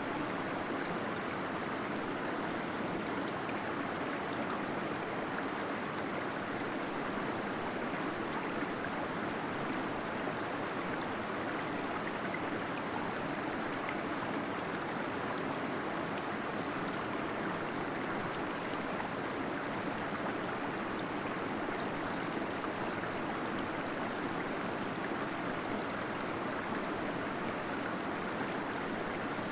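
Small waterfall splashing and gurgling into a pool inside a cave, a steady, even rush of water.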